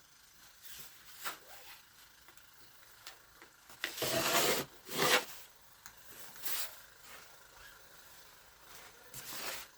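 Snow being scraped and crunched in several short bursts, the loudest about four seconds in and another near the end.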